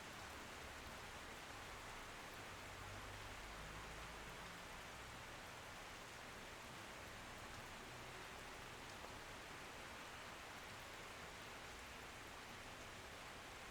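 Steady rain: an even, faint hiss of falling rain with no distinct drops standing out and no thunder.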